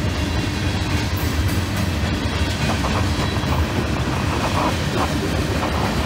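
Freight cars of a long CSX mixed freight train, covered hoppers and tank cars, rolling past: a steady rumble of steel wheels on the rails.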